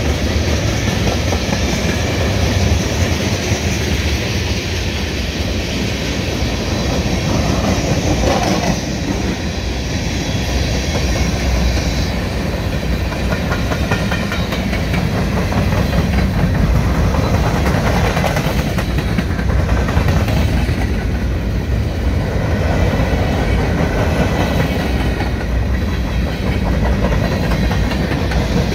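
Freight train cars rolling steadily past close by: a continuous low rumble with rhythmic wheel clatter, as a string of tank cars gives way to covered hopper cars.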